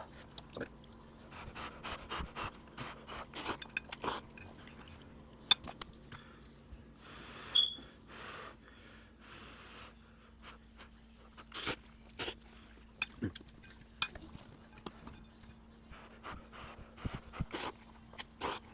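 Someone eating hot instant ramen from a bowl with a fork: scattered clicks and scrapes of the fork against the bowl, with slurping and heavy breathing over the too-hot noodles.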